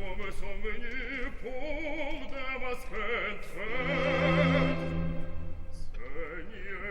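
Background music: an operatic voice singing with wide vibrato over orchestral accompaniment.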